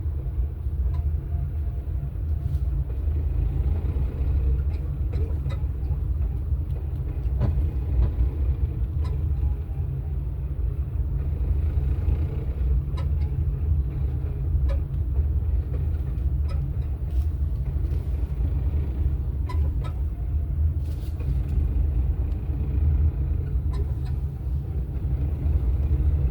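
A vehicle engine running steadily with a low rumble and faint irregular ticks scattered through it, recorded as an engine noise the owner is reporting as a suspected fault.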